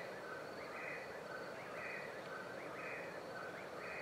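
A bird faintly repeating a short phrase about once a second: a higher note, a lower note and a quick upward slur, over and over.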